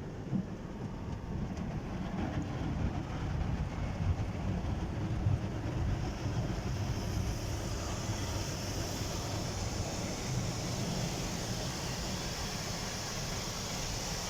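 Car wash machinery running: a steady low rumble, joined about six seconds in by a steady high hiss that grows louder.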